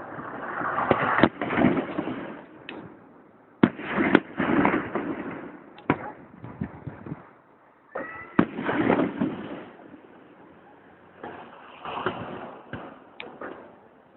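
Fireworks going off: several sharp bangs among stretches of crackling hiss, with a short rising whistle about eight seconds in.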